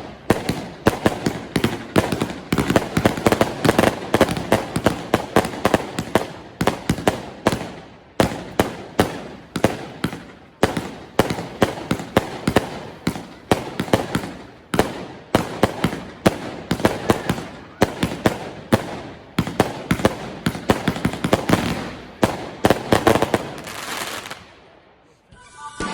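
A 20 mm, 81-shot consumer firework battery firing in quick succession, several shots a second, each a sharp launch bang and burst. The firing stops and the sound dies away near the end.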